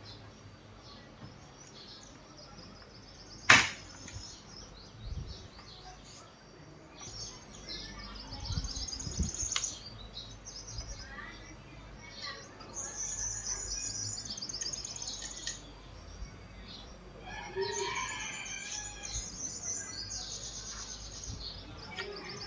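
Small birds chirping in repeated high trills, with one sharp loud click about three and a half seconds in and a few soft knocks.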